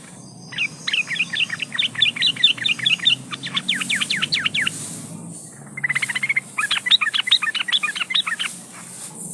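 Yellow-vented bulbul (trucukan) calling in full voice: two long runs of quick chattering chirps, the first about four seconds long and the second about three, with a short pause between them. A faint low hum runs underneath.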